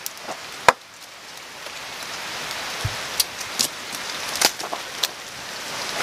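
Duck-egg omelette frying in a pan over a wood fire: steady sizzling with scattered sharp crackles and pops, the loudest about two-thirds of a second in.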